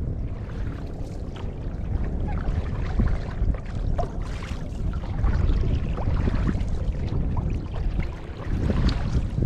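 Wind buffeting the microphone, with water splashing and lapping throughout.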